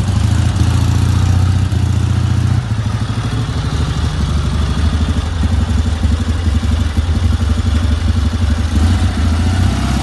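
Ural 750 sidecar motorcycle's flat-twin engine running at low revs, its beat shifting slightly about two and a half seconds in.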